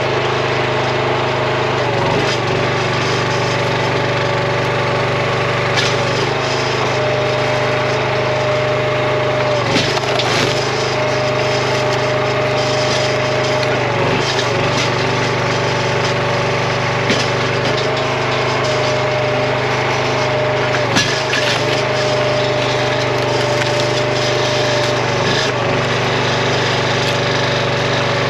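Gas-powered RuggedMade hydraulic log splitter running steadily, its engine note dipping briefly every few seconds as the ram takes load, with occasional sharp cracks of red oak splitting.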